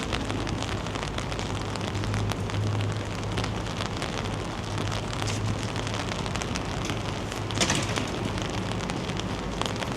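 Steady rain falling, with a constant hiss and many small drop ticks over a steady low hum, and a brief louder rush about three quarters of the way through.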